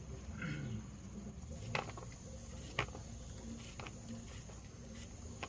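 Three sharp clicks or taps, about a second apart, over a faint steady hum and a thin high steady tone.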